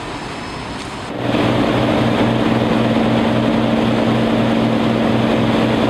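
A steady rushing noise, then about a second in an abrupt change to the mail boat's engine running steadily, with a low hum that pulses about three to four times a second.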